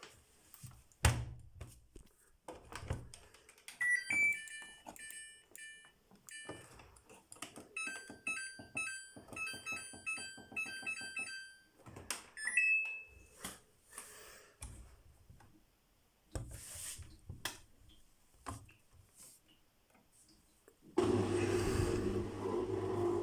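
Samsung washing machine being set going: a few knocks, then a run of short electronic beeps and chime notes from the control panel. Near the end the machine starts up with a steady hum.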